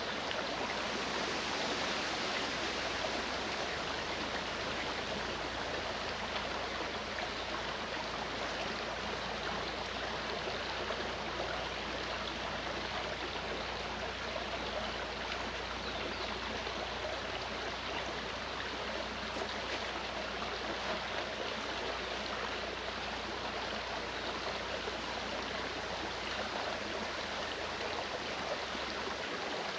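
Mountain stream flowing, a steady rush of water with no breaks.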